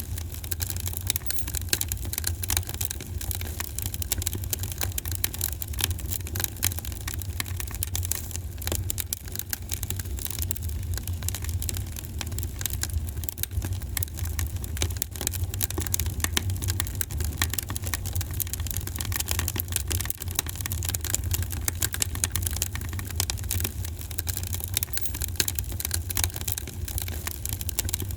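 Wood fire in a fireplace crackling with a constant, irregular patter of small pops over a steady low rumble.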